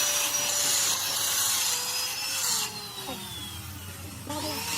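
Scraping and rubbing of a hand tool working over a part, a steady hiss that drops away about two and a half seconds in.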